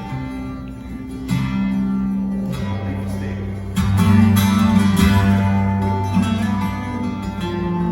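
Live folk band playing the instrumental introduction to a song: plucked acoustic guitar over long held bass notes, growing louder about four seconds in.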